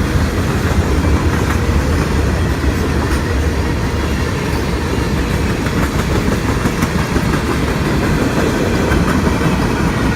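A train rolling past close by: a steady, loud rumble of wheels on rail, with faint scattered clicks.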